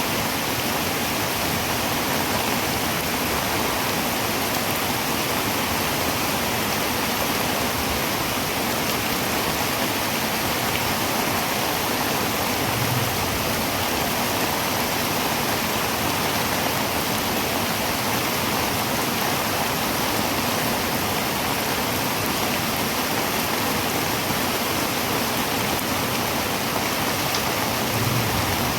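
Heavy rain falling on a tin roof, a dense, steady hiss with no let-up.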